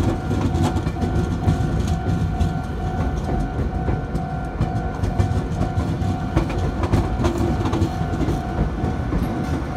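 Meitetsu 2230-series electric train cars rolling past while towed, their wheels rumbling and clicking over the rail joints. A level-crossing warning bell rings steadily in even, repeated pulses over the train noise.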